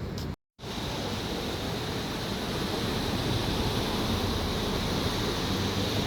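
Steady rush of sea surf along the shore, broken by a brief dropout about half a second in.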